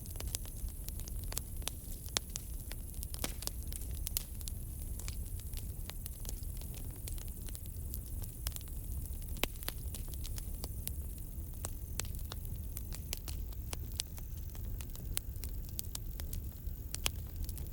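Campfire crackling, with irregular sharp pops and snaps scattered through, over a steady low rumble. A faint steady high chirring of crickets runs underneath.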